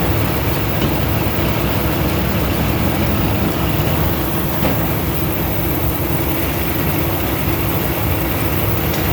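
Semi-truck diesel engine idling steadily, a low even rumble.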